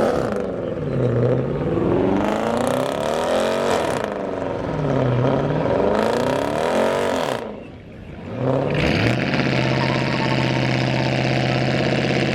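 A car engine revved repeatedly, its pitch climbing and falling back several times. After a short dip about eight seconds in, it settles into a steady idle.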